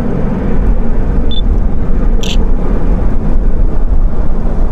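Steady, loud rumble of a Boeing 737 rolling along the runway just after touchdown, with a short high beep about a second in and a brief hiss about two seconds in.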